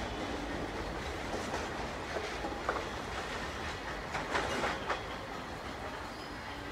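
Train coaches rolling away along the track, slowly fading, with wheels clattering over rail joints in a few sharper clicks about a second and a half in, near the middle, and a cluster around four and a half seconds in.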